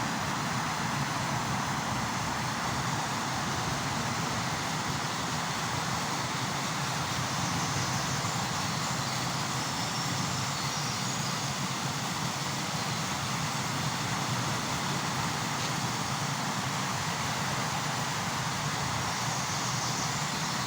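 Waterfall on a river, water rushing steadily.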